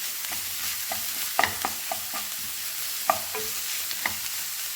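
Onion, green chilli and ginger-garlic paste masala sizzling in coconut oil in a hot pan. A spoon scrapes and taps against the pan now and then as the mixture is stirred, with the loudest taps about one and a half, three and four seconds in.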